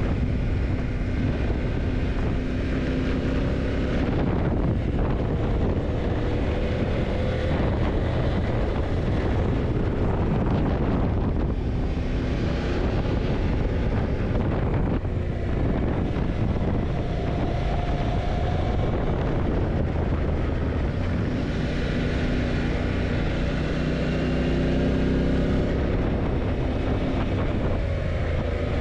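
Yamaha TDM900's parallel-twin engine running under way, its pitch rising and falling a few times with the throttle, over heavy wind noise on the microphone.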